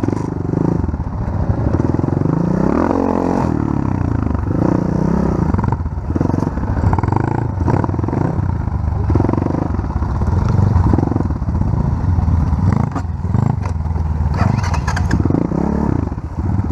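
Off-road vehicle engine running under load on a forest trail, the throttle opened and closed over and over so the engine note keeps rising and falling, with clattering from the rough ground.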